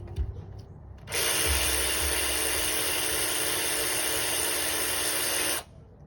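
A power tool runs steadily for about four and a half seconds. It starts abruptly about a second in and cuts off suddenly near the end, with a loud, even whirring noise spread from the middle to the very top of the range.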